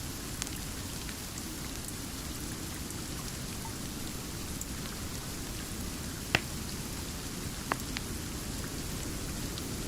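Steady rain, with a few sharp pops or clicks over it, the loudest about six seconds in.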